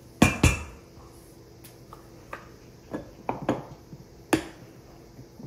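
Kitchenware being handled: two sharp clinks with a short ring near the start, then a string of lighter clicks and taps.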